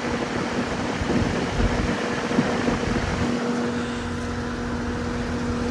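2016 Lennox 14HPX 2-ton heat pump's outdoor unit running in cooling mode, shortly after starting. Its Copeland scroll compressor gives a steady hum under the even rush of the condenser fan's air.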